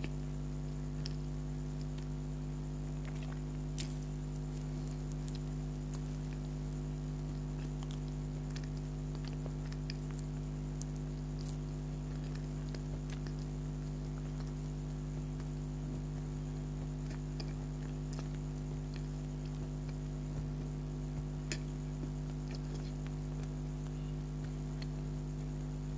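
Someone chewing donut close to the microphone, with scattered small wet clicks and smacks, over a steady low electrical hum.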